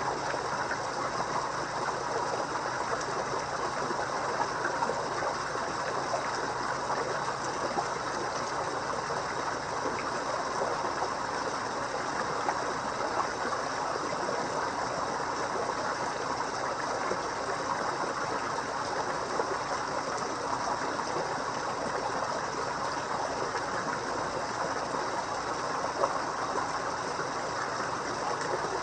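Steady trickling and splashing water of a koi pond, with a faint steady hum underneath.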